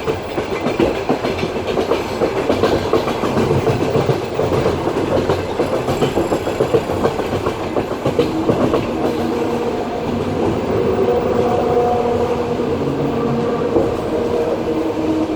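Passenger train carriage running on the rails, heard from inside: steady rumble with rapid clattering of the wheels over the track. About halfway through, a steady hum of several tones rises over the rumble.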